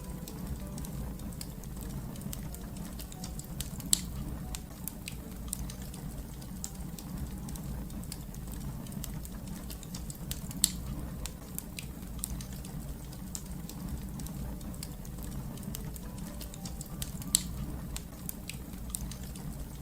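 Fire crackling over a steady low rumble, with frequent small snaps and three louder sharp pops spread through.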